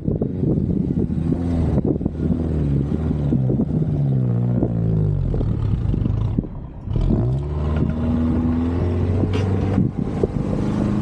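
A four-wheel-drive vehicle's engine under way, its revs rising and falling several times. The revs drop away briefly about six and a half seconds in, then climb again and settle to a steady note.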